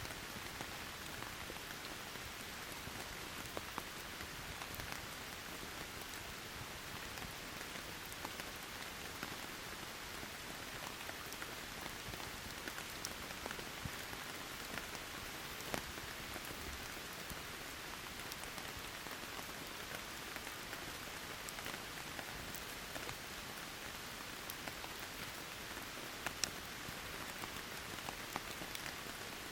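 Steady rain falling, an even hiss, with scattered sharp crackles from a wood campfire, the loudest about halfway through and near the end.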